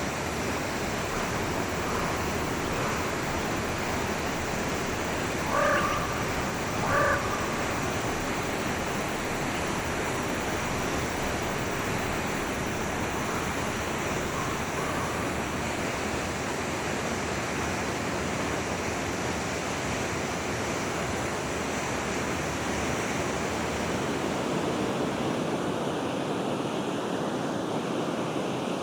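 Forest stream flowing steadily, with two short animal calls about a second apart a few seconds in, and a few fainter calls later.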